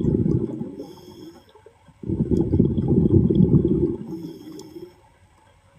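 Diver breathing underwater: exhaled air bubbling out of the breathing gear in two long bursts, each followed by a short quiet inhale with a faint hiss.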